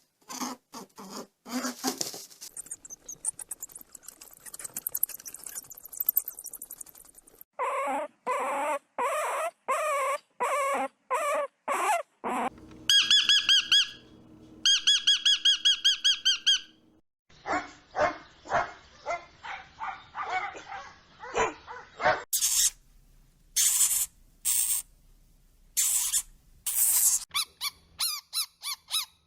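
A run of young animals calling, one clip after another: repeated squeaky cries and yelps that change in kind every few seconds, with a loud, rapid, high trill twice in the middle.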